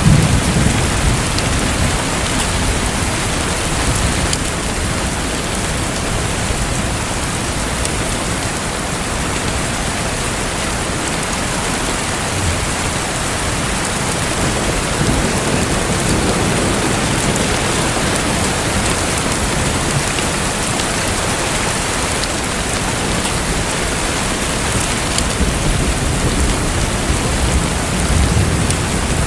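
Steady rushing water noise like heavy rain, unbroken throughout, with low rumbles at the start and again near the end.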